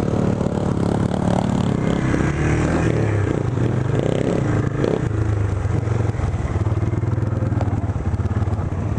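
Small single-cylinder four-stroke off-road engine running, its pitch rising and falling with the throttle for the first five seconds or so, then settling to a steady idle.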